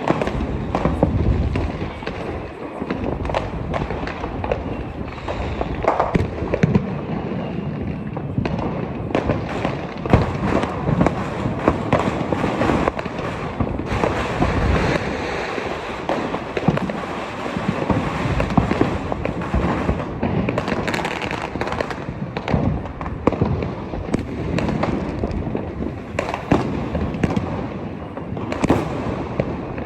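Fireworks and firecrackers going off continuously, a dense crackle of many sharp bangs and pops overlapping one another, with a few louder cracks standing out.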